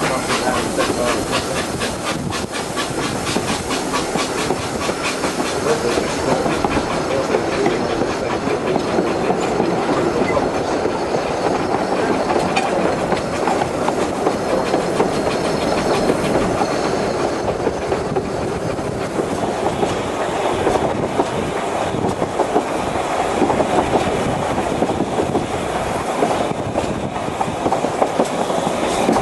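Narrow-gauge steam train of the Isle of Man Steam Railway running along the line: steady rumble of the carriages, with wheels clattering over the rail joints.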